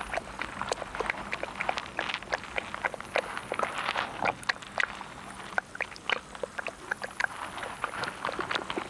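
Wet sucking and chewing noises, a dense run of irregular clicks and crackles: a water beetle larva sucking the digested juice out of a bloodworm it has poisoned.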